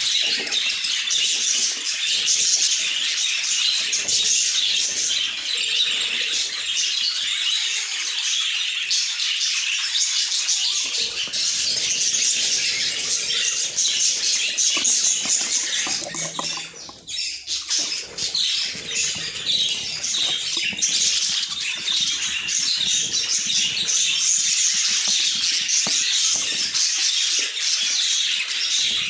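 Budgerigars chattering and chirping, many calls overlapping without a break, with a short lull about seventeen seconds in.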